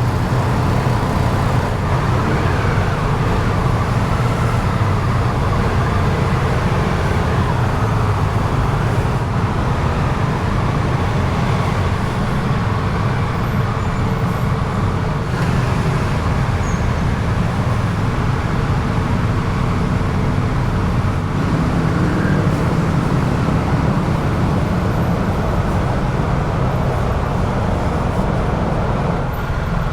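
Triumph Tiger 1200 GT Explorer motorcycle running: a steady engine drone under an even hiss of road noise.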